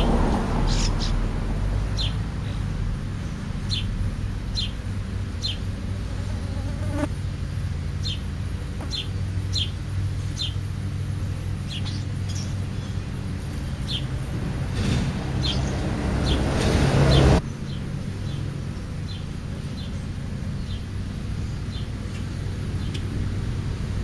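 A small bird chirping over and over, short high chirps about one to two a second, over a steady low outdoor rumble. A rushing noise builds for a few seconds and cuts off suddenly about seventeen seconds in.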